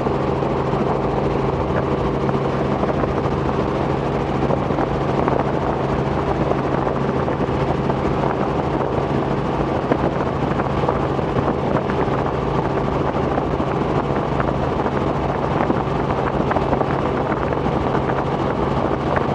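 Robinson R44 helicopter in steady cruise flight, heard from inside the cabin: a constant drone of rotor and piston engine with an even low hum, unchanging throughout.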